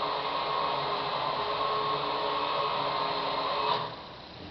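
Electric blind motor running steadily as the motorised blinds go up, with a steady hum and whine. It stops with a faint click near the end.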